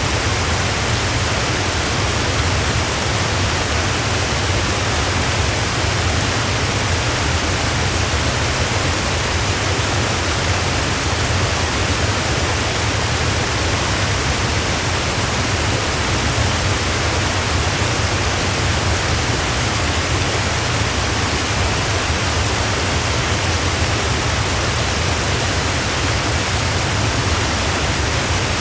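Waterfall: water falling in a steady rush with a deep rumble underneath.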